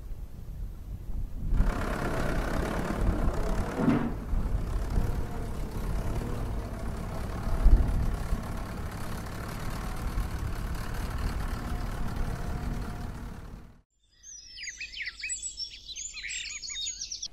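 A steady low outdoor rumble that cuts off abruptly near the end. It gives way to birds chirping in quick, high calls.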